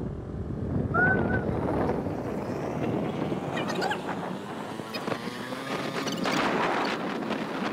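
Wind buffeting the microphone over the steady noise of a moving vehicle, with a short high-pitched call about a second in and faint voices now and then.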